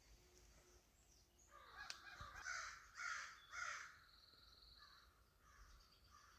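A crow cawing faintly, about three rough caws close together in the middle.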